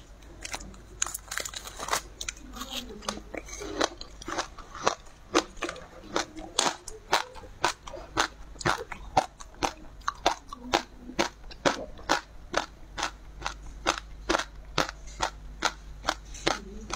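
Sea grapes (green caviar seaweed) being bitten and chewed close to the microphone, their little beads bursting in a steady run of sharp, crisp pops, about two a second.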